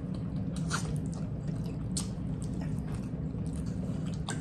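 People chewing food with wet lip smacks and a few sharp mouth clicks, over a steady low hum.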